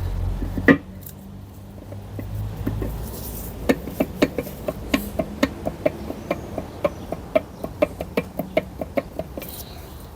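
A sharp knock about a second in, then a run of sharp clicks, about three or four a second, for around six seconds.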